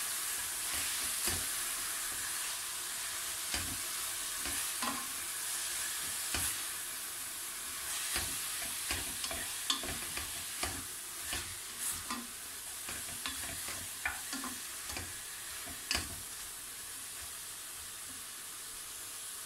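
Bacon, onion, grated carrot and olives sizzling as they sauté in a large aluminium pot, with a wooden spoon stirring and knocking against the pot at irregular moments.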